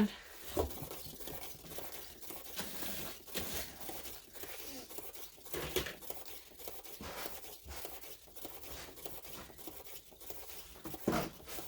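Faint, irregular rustling and light knocks from a painting being handled and spun on a paint-pouring spinner.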